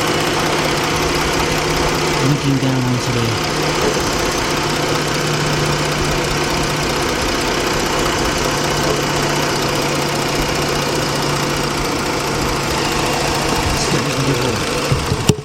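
The Jeep Grand Cherokee's 3.7-litre V6 idling with a steady hum.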